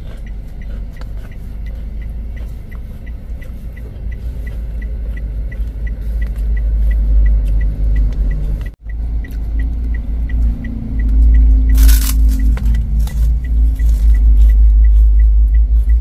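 Low vehicle rumble heard from inside a parked car, swelling louder through the second half, with a short hiss about twelve seconds in and a faint steady ticking about two or three times a second.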